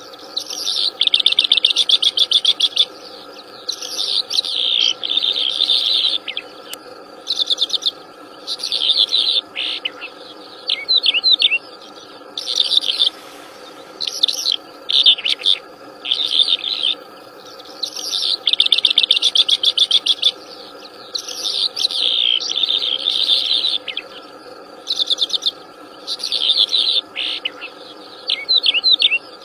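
A wild songbird singing loud, repeated high phrases about a second or two long with short pauses between them, made of fast trills and quick falling notes. A faint steady drone runs underneath.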